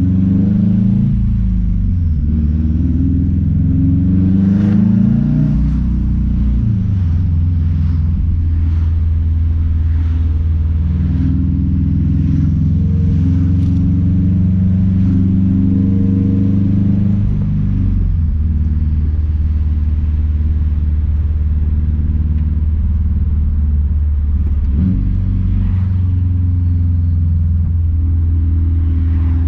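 Straight-piped 2006 Subaru WRX STI's turbocharged flat-four running under way, its pitch rising and falling over the first few seconds, then holding steady at a cruise. It drops in pitch a little past halfway, and there is a short knock about 25 seconds in.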